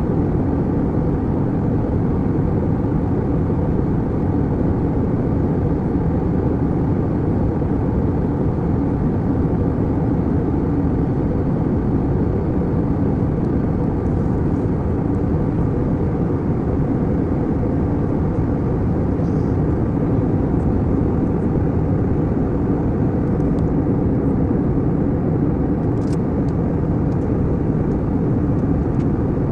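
Steady, low-pitched noise of an airliner cabin in flight: engine and airflow noise that keeps a constant level.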